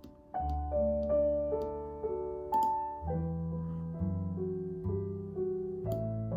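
Slow, calm background piano music: a gentle melody of single notes over held low chords. It comes in about half a second in.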